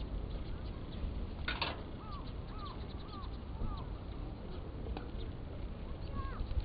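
Wood fire crackling with scattered sharp pops, the strongest about a second and a half in, while a bird gives a run of short, arched calls about twice a second through the middle.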